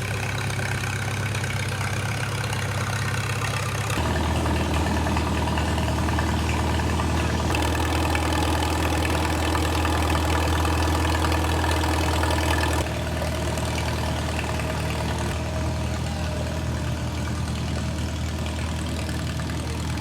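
Old tractor or stationary engines idling steadily. The engine note changes abruptly about four seconds in and again about thirteen seconds in, as one running engine gives way to another.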